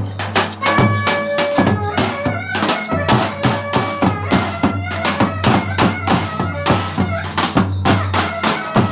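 Instrumental Turkish folk dance music (Zonguldak oyun havası) played live: a fast, steady drum beat with a melody line over a continuous low drone.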